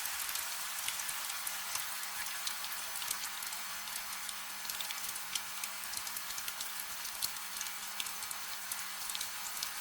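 Steady gentle rain: an even hiss with many small, sharp drop ticks scattered throughout, over a faint low hum.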